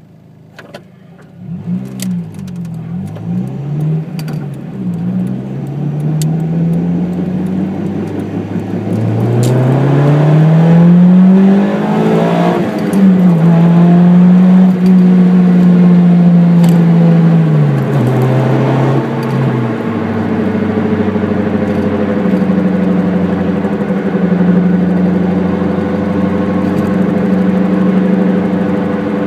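Honda Integra DC2 driving, heard from inside: the engine revs climb and drop with several gear changes in the first half, then settle into steady cruising. Under the engine runs a rumbling 'go, go, go' road noise that the owner puts down to a worn hub bearing.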